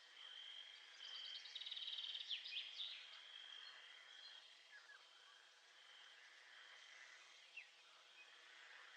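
Faint nature ambience: a high, steady insect-like trill that comes and goes in stretches, with a quick rattling run and a few short bird chirps between about one and a half and three seconds in, and one more chirp near the end.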